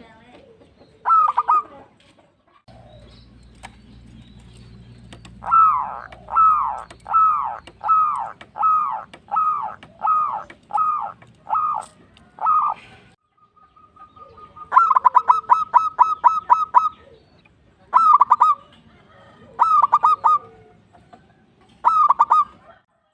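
Zebra dove (perkutut) singing its cooing song in repeated phrases. There are short clusters of coos, then a run of about nine falling coos at roughly one and a half a second, then a fast stuttering burst of notes, and three more short clusters near the end.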